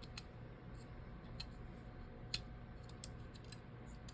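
Faint, scattered small clicks and taps of hand tools and phone parts being handled during a phone screen repair, a sharper tap a little past two seconds in, over a steady low hum.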